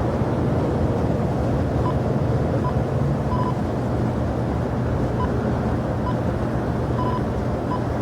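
Steady low rumble of jet aircraft engines at an airport, with wind on the microphone. A few short, faint high beeps sound at irregular moments over it.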